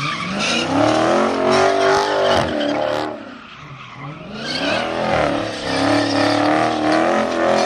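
Car engine revving hard with tires spinning and squealing in a burnout. The engine climbs in pitch and holds high, drops off about three seconds in, then climbs and holds again.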